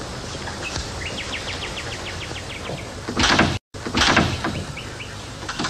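A bird's trill of quick, evenly repeated short rising chirps, then two loud rushing swishes about a second apart, with a brief total dropout of sound between them, over the steady hiss of an old recording.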